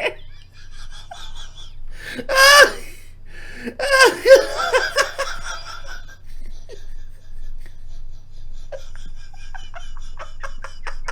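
A person laughing hard in two loud, high-pitched, wavering bursts, about two seconds in and again around four seconds in.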